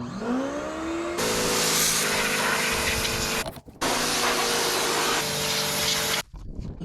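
Electric pressure washer motor spinning up with a rising whine, then running with a steady hum under the loud hiss of the spray jet. It cuts out for a moment about three and a half seconds in and again near the end as the trigger is let go, then starts again.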